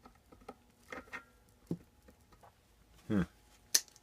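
Light, scattered clicks and taps of small metal parts being handled, with a sharp click near the end; a short voiced hum just before it.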